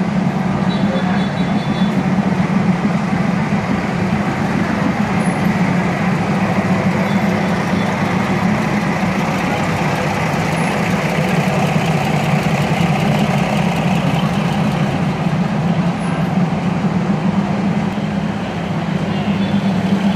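Old passenger train running, a steady loud noise with a continuous low hum.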